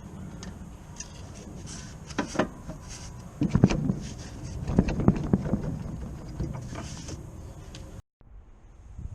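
A run of knocks and clatter: a few sharp knocks about two seconds in, then louder clusters of knocking around three and a half and five seconds in. The sound cuts out abruptly for a moment near the end.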